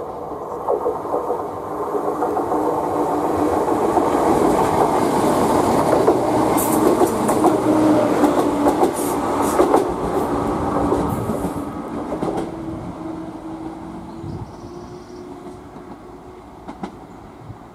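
Class 170 Turbostar diesel multiple unit passing, its engines humming with a steady tone and its wheels clicking over rail joints and points. The sound builds to its loudest in the middle and fades over the last few seconds.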